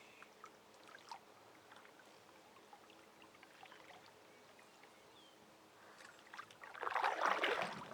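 Canoe paddling on calm water: faint small knocks and water sounds, then a louder splashing paddle stroke lasting about a second near the end.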